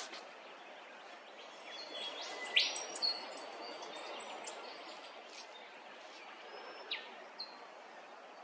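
Wild birds calling in bushland: a scatter of high chirps and whistles, with a sharp rising whistle about two and a half seconds in and a falling one near the end, over a steady outdoor hiss.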